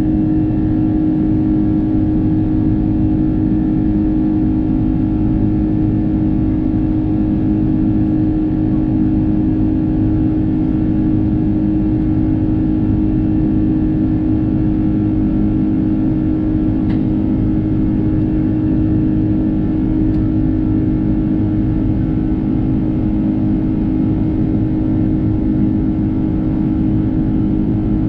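Cabin noise of an Airbus A330-300's Rolls-Royce Trent 700 jet engines: a loud, steady drone with a constant low hum that does not change.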